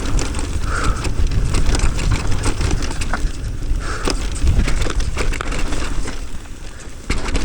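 Mountain bike being ridden fast down a dirt jump trail: wind rumbling on the microphone, and tyres crunching over dirt. Many sharp clicks and knocks come from the bike rattling over the terrain.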